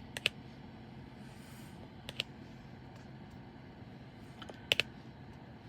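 Short sharp clicks in pairs, three times, of a diamond painting pen tapping resin drills onto the adhesive canvas, over a low steady hum.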